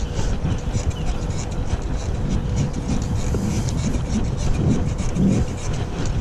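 Wind buffeting the microphone and the rolling noise of a bicycle moving along a paved trail, with frequent small clicks and rattles.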